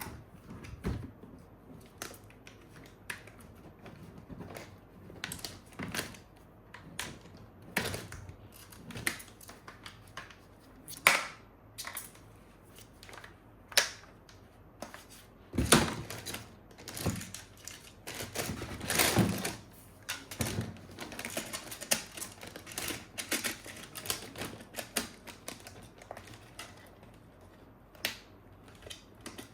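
Plastic toy gun parts and packaging being handled: irregular sharp clicks and taps, with two longer rustling scrapes about halfway through.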